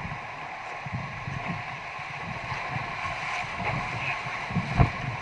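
River water rushing steadily through rapids, with irregular low thumps, the strongest near the end.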